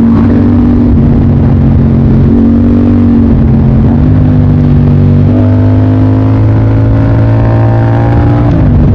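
Motorcycle engine running under way, its note shifting up and down in steps. In the second half it climbs slowly in pitch as the bike accelerates, then drops sharply near the end as the throttle is closed or a gear is changed.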